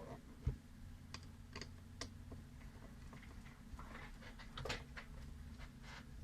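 Scattered light clicks and ticks, about a dozen at uneven spacing, from small parts and tools being handled while a folding knife is worked on.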